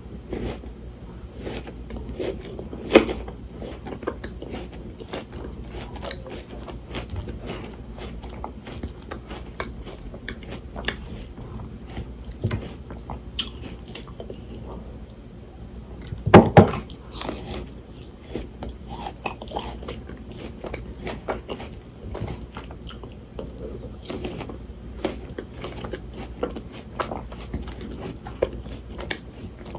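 Close-miked biting and chewing of frozen Shine Muscat grapes: icy crunching and crackling throughout, with two loud bites, one near the start and a bigger double crunch about halfway through.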